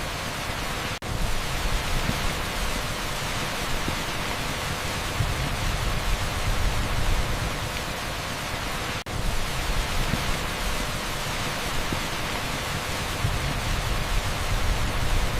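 Torrential rain pouring onto an asphalt street, a steady dense hiss that cuts out for an instant twice.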